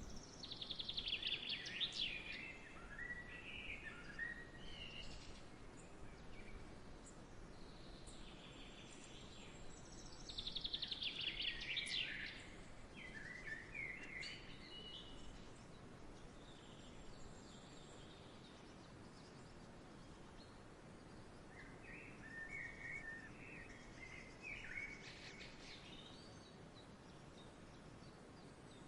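A songbird singing in three bouts, each a rapid trill followed by short chirps, over a faint steady outdoor hiss.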